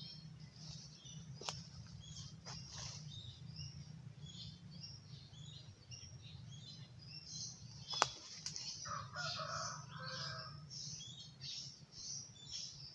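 Birds chirping, many short high calls overlapping throughout, with two sharp clicks, one about a second and a half in and a louder one about eight seconds in, and a lower call for a second or two just after the second click.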